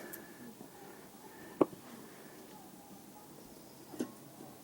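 Two short, sharp clicks about two and a half seconds apart, the first much louder, as rear brake pads are worked out of a Vauxhall rear brake caliper.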